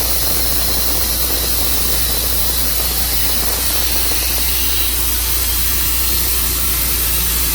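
Tru Cut sawmill running steadily: a constant engine hum under a loud, even hiss, with no break or change.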